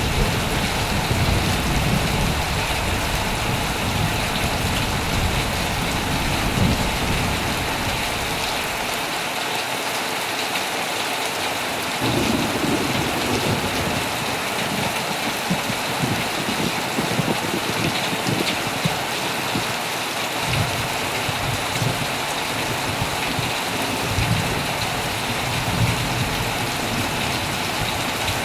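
Heavy rain pouring steadily on a tent, with low rolls of thunder rumbling underneath. The rumble fades out for a few seconds about nine seconds in, then rolls back in.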